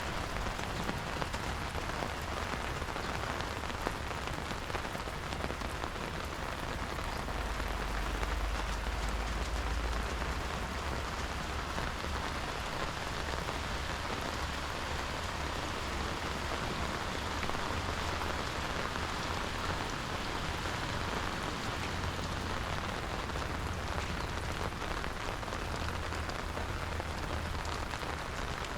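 Steady rain falling, an even, dense patter with no pauses.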